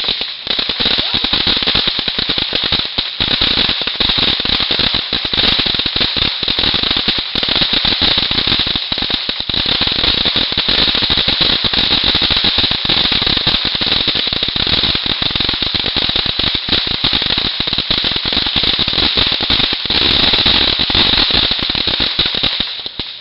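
Consumer fireworks giving off a loud, continuous rapid crackle of many small pops, like a long string of firecrackers, which stops near the end.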